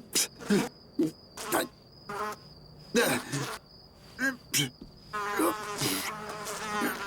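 Cartoon housefly buzzing: a thin, high whine that starts and stops several times, broken by short, louder sounds.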